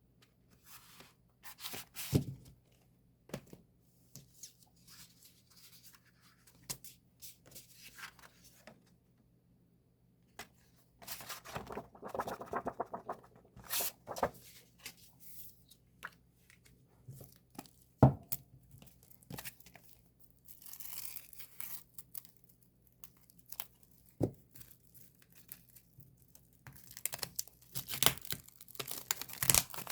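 Album packaging being handled and unwrapped: plastic wrap and paper crinkling and tearing in irregular bursts, with a few sharp knocks.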